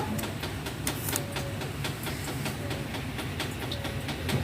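Heavy rain with a steady low rumble and many irregular sharp drop impacts.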